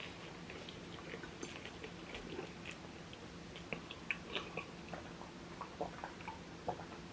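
A person chewing food close to the microphone, with soft wet mouth clicks and smacks scattered throughout, over a faint steady low hum.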